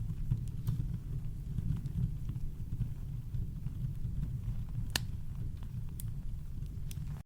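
Campfire crackling: a few sparse, sharp pops and snaps, the strongest about five seconds in, over a steady deep low rumble of brown noise.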